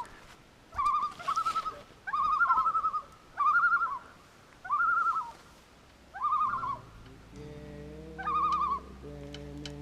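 Common loon giving a series of loud, rapidly wavering calls, about one a second. Soft music comes in during the second half.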